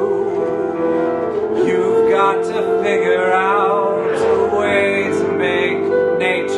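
An improvised song: sustained keyboard chords, with a voice singing long notes that waver in pitch through most of it.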